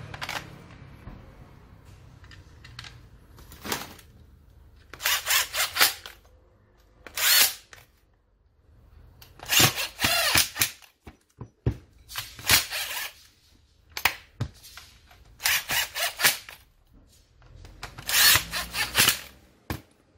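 Power drill-driver running in about six short bursts of a second or so each, with pauses between, as when driving screws during reassembly.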